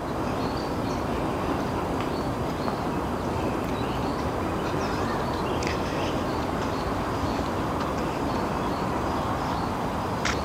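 Steady outdoor background noise, an even rumble and hiss, with a few faint short bird chirps.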